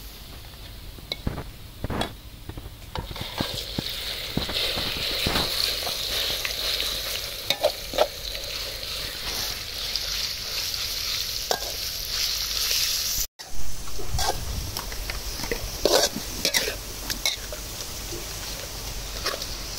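Food sizzling as it fries in a pan, with a utensil stirring and scraping it in short clicks and knocks. The sizzle builds up about three seconds in and carries on after a brief dropout about two-thirds of the way through.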